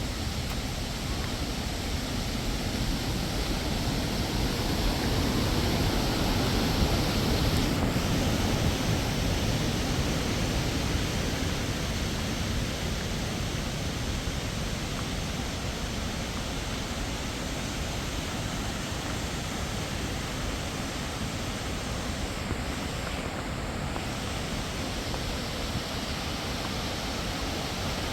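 Waterfall rushing steadily, a little louder about five to ten seconds in.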